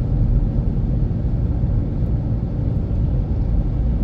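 Steady low rumble of a car under way, tyre and engine noise heard from inside the cabin.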